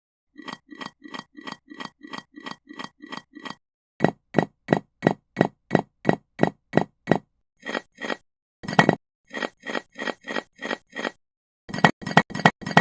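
Small bricks clinking one after another, about four sharp clinks a second, in runs broken by short pauses.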